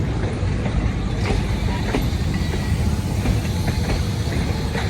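Diesel-hauled passenger train pulling out of the station: a steady low rumble of locomotive and carriages rolling over the rails, with a few faint clicks.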